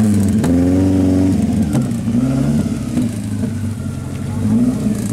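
Mk1 Ford Escort's engine blipped through its side-exit exhaust: a sharp rev held for about a second, then dropping back toward idle, with a couple of shorter throttle blips later on.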